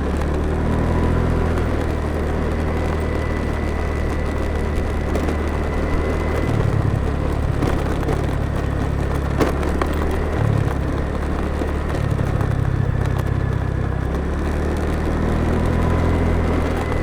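Motorbike engine running under the rider, with wind and road noise over the microphone; the low engine hum shifts in pitch a few times as the throttle changes.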